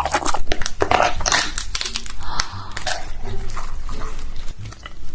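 Close-miked mukbang eating sounds: king crab shell cracking and crinkling, with biting and chewing, as a run of sharp irregular cracks.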